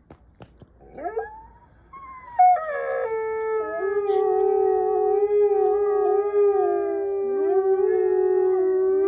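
Mexican wolves howling in chorus: after a few faint clicks, a rising call about a second in, then from about two seconds several long howls at different pitches overlap and waver, some bending up and down.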